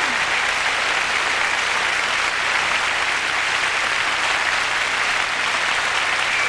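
Concert hall audience applauding steadily, a dense even clapping from a large crowd, heard on an old cassette recording.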